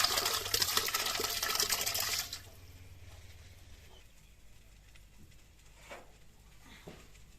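Water pouring and splashing, which stops about two seconds in, followed by a few faint knocks.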